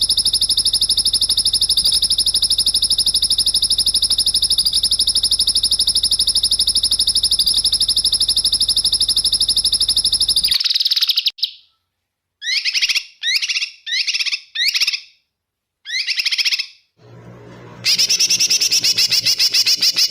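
Recorded small songbird trilling: one long, fast, even trill for about ten seconds, then five short trilled phrases with brief silences between them, and another fast trill near the end.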